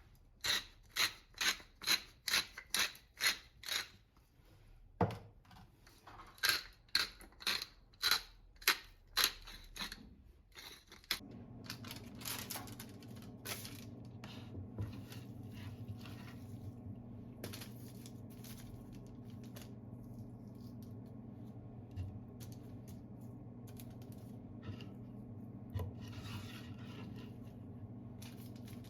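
Knife chopping on a cutting board, about two to three strokes a second, for the first ten seconds or so. Then a steady low hum sets in, with a few light clicks and knocks over it.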